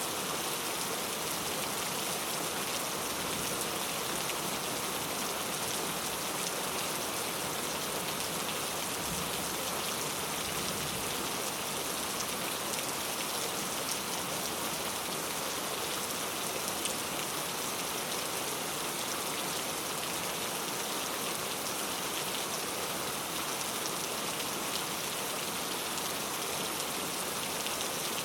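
Heavy rain falling steadily: an even wash of countless drops with no let-up.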